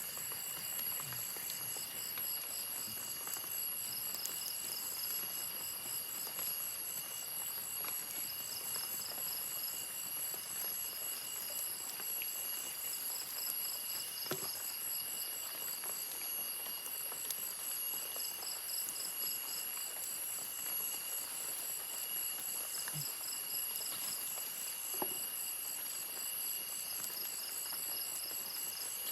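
Chorus of night insects calling together at several steady high pitches, some in fast even pulses, with a few faint ticks and knocks scattered through it.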